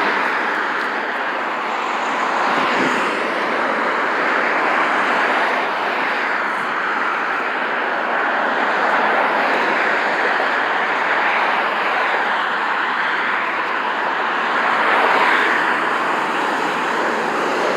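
Steady traffic noise from passing road vehicles, tyres and engines, with the level swelling a little a few times as vehicles go by.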